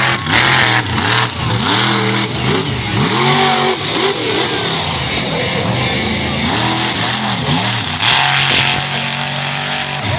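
Monster truck engine revving up and down again and again during a freestyle run, with rushing noise bursts over it near the start and about eight seconds in.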